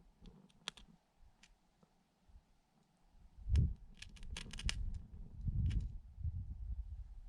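A ferro rod struck again and again, short sharp metallic scrapes, several in quick succession about halfway through, while lighting a damp fire. Wind buffets the microphone with a low rumble from about halfway on.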